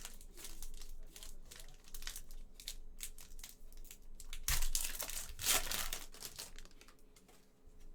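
Trading cards and their foil pack wrappers being handled: a run of crinkling and rustling, with the loudest crinkles about halfway through.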